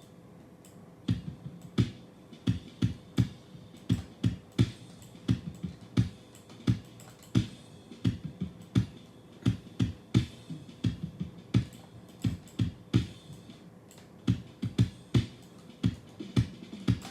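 Drum track played back from a multitrack recording during a sound check: a run of sharp, low-pitched drum hits, about two to three a second, starting about a second in.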